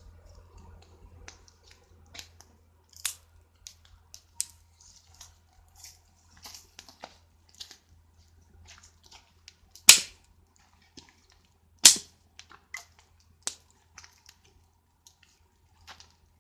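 Wood fire crackling, with irregular sharp pops and two loud cracks about ten and twelve seconds in.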